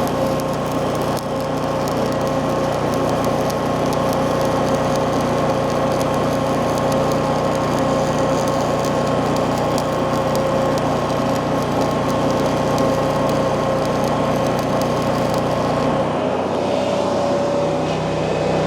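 A machine running steadily with a constant whine; its sound drops and changes about sixteen seconds in.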